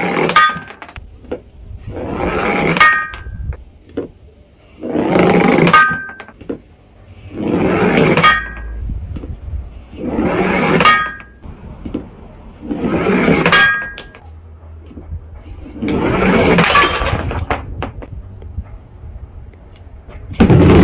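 An iron ball smashing glass bottles filled with coloured water, one after another: seven crashes of breaking glass about two and a half seconds apart. Several crashes carry a brief glassy ring.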